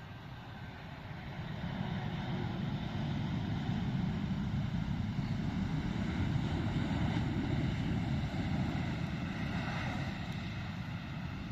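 Jet airliner coming in to land, its engine rumble swelling about a second and a half in and holding, with a faint steady whine above it, then easing slightly near the end.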